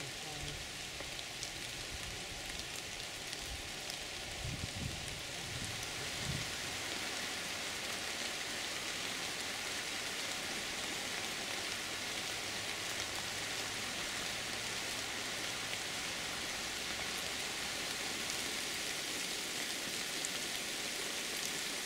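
Steady heavy rain falling on a river and the surrounding trees and grass, an even hiss with no let-up. A few low rumbles come through about four to six seconds in.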